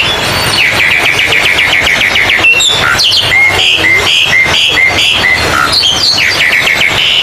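Oriental magpie-robins singing loudly in a contest-style mix: a fast repeated trill, then a string of alternating high and low whistled notes, then another trill near the end.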